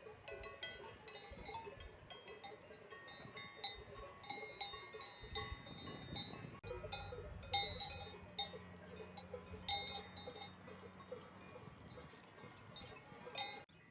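Cowbells on grazing livestock clanking irregularly, many overlapping strikes at different pitches. A low steady hum runs underneath for a few seconds midway.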